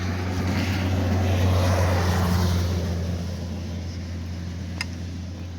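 Steady low engine hum, with a rushing noise that swells to its loudest about two seconds in and then fades away. A single sharp click comes near the end.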